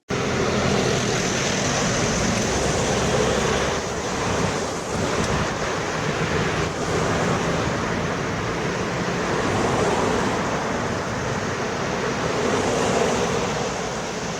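Steady rushing noise, like wind or road noise, with a faint low hum beneath it.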